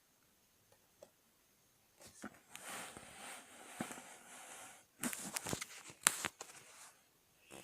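Plastic Lego pieces being handled: about three seconds of rustling, then a quick run of sharp clicks.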